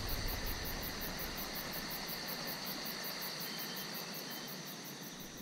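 Insects chirping steadily in the background, with a very high, even pulse about five times a second over a soft outdoor hiss.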